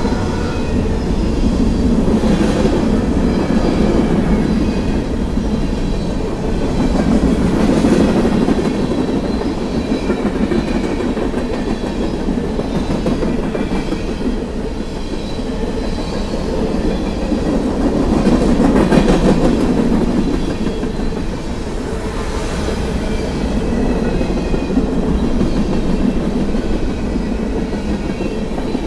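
Freight cars of a CSX manifest train (covered hoppers and tank cars) rolling past close by, steel wheels rumbling and clacking on the rail. The sound swells and eases as each car's wheel sets go by. A horn blast dies away at the very start.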